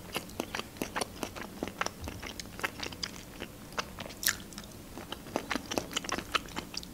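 Close-miked chewing of a mouthful of food: many small, irregular wet clicks from the mouth.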